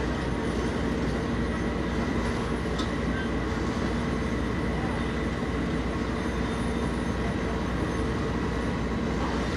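A large engine running steadily: a constant, unchanging drone with a steady hum in it.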